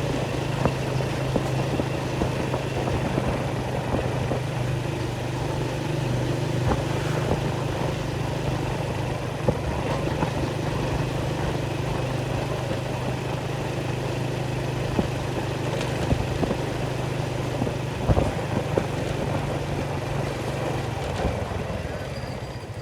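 A small engine running steadily at a constant pitch, dying away just before the end.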